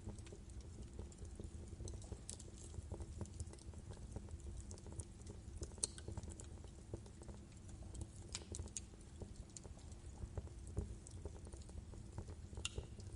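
Wood logs burning in a fireplace, crackling with irregular small snaps and a few louder pops over a low steady rumble of the flames.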